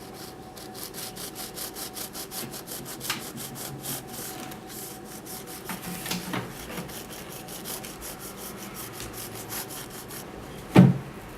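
Knife sawing back and forth across a baked cake to level its top, a steady rasping stroke about four or five times a second. A single loud knock near the end.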